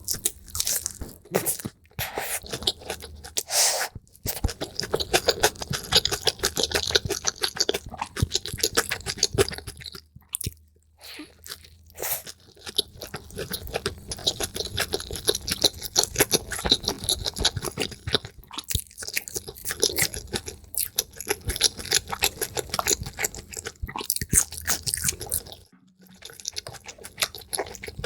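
Close-miked chewing and crunching of food, sped up, so the crunches come as a rapid run of crisp clicks and crackles. It breaks off briefly a few times, about 4, 11 and 26 seconds in.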